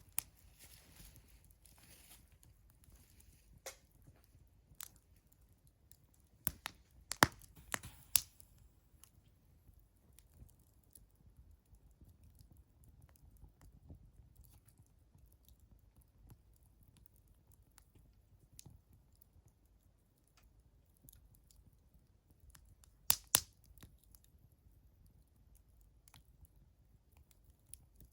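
Wood fire crackling: scattered sharp pops and snaps, with a cluster of loud pops around seven to eight seconds in and a pair about twenty-three seconds in, over a faint low hiss.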